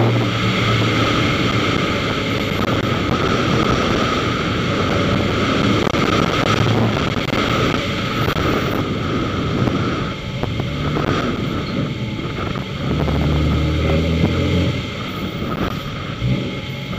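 Opel Ascona's engine heard from on board during a slalom run, revving up and dropping back again and again as the car accelerates and slows between the cones, with steady road and wind noise underneath.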